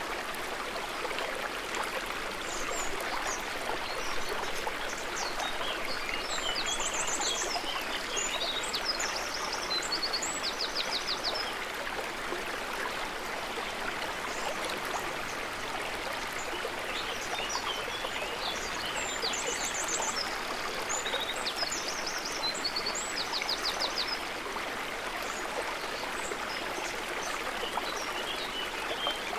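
River water running steadily, with birds chirping and giving short trills in two spells, about a quarter and about three quarters of the way through.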